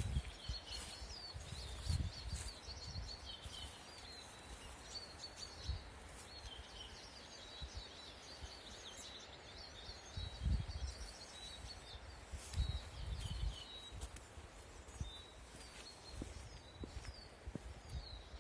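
Birds chirping and singing continuously, with scattered low thumps underneath.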